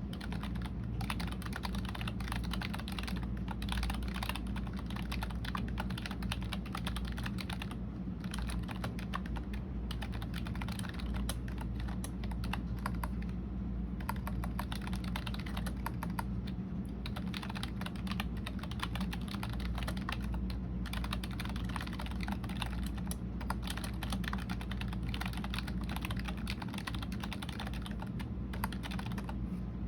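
Typing on a computer keyboard: quick runs of keystroke clicks with short pauses between them, over a steady low hum.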